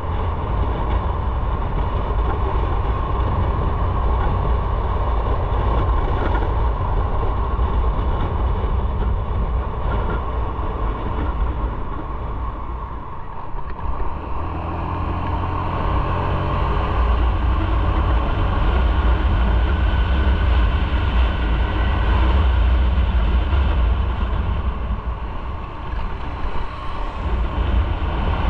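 Motorcycle riding at speed: heavy wind rumble on the microphone over engine and road noise. Around halfway through it eases off briefly, then the engine pulls up again, its pitch rising as the bike accelerates.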